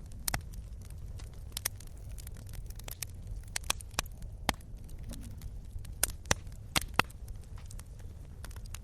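Wood fire crackling: irregular sharp pops and snaps over a steady low rumble, with a cluster of louder pops about six to seven seconds in.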